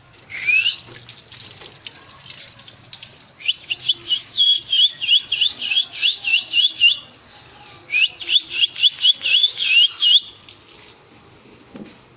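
Cockatiel calling: one rising call near the start, then two long runs of quick, repeated chirps, about three or four a second.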